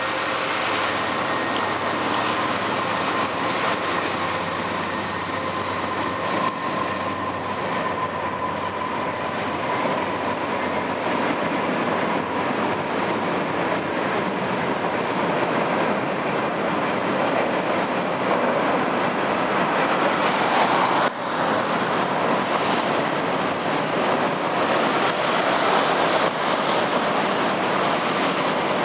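Freight train of BNSF covered grain hopper cars rolling steadily over a railway bridge, a continuous rumble and clatter of wheels on rail. A faint steady whine sits over it for roughly the first ten seconds.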